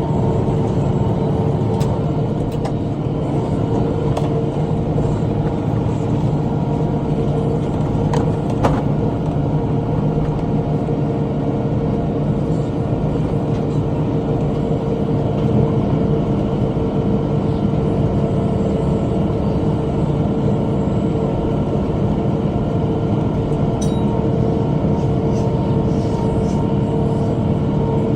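Tractor engine running steadily under load while pulling a bush hog rotary cutter, with a constant whine over a low rumble and a few sharp clicks.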